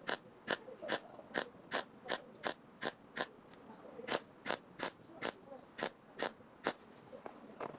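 A metal hand tool clicking in a steady rhythm, about three sharp clicks a second, with a short pause a little before halfway.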